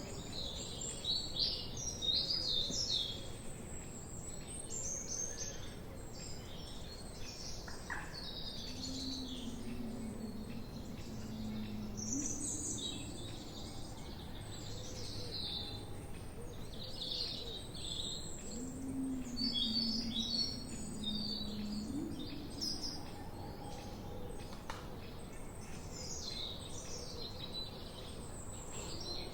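Mixed chorus of wild songbirds chirping and singing, many short high calls overlapping without pause. Twice, about a third and two thirds of the way in, a low drawn-out note sounds beneath them.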